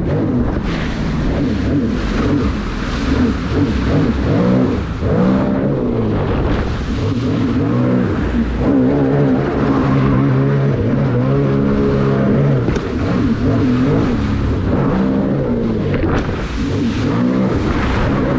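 SeaDoo Spark Trixx personal watercraft running on the water, its 90-horsepower three-cylinder Rotax engine rising and falling in pitch over and over as the throttle is worked. Water and wind hiss run underneath.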